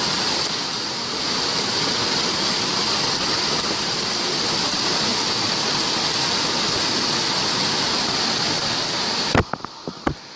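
Loud, steady rushing noise with a hiss, cutting off abruptly near the end, followed by a few faint clicks.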